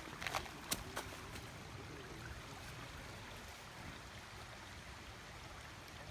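Creek water running over rocks, a steady even rush, with a few sharp clicks in the first second.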